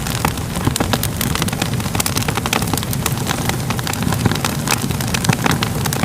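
Crackling fire: a steady low roar of flames with dense, irregular pops and crackles of burning wood.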